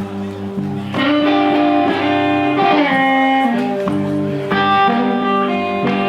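Blues guitar played live between sung lines, with plucked notes ringing out and held in a slow lick.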